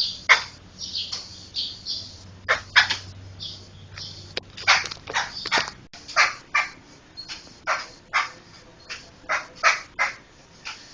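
A poksay (laughingthrush) calling in a run of short, harsh notes, about one or two a second, some close together in pairs.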